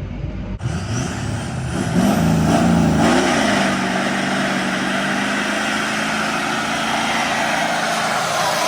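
Turbocharged 6.0-litre V8 diesel truck engine under way. It climbs in pitch with a faint high turbo whistle rising about a second in, wavers, and then settles to a steady drone with a lot of rushing noise.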